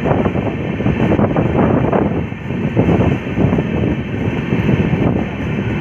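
Wind buffeting the microphone at an open coach door over the rumble and irregular clatter of a moving passenger express train's wheels on the rails.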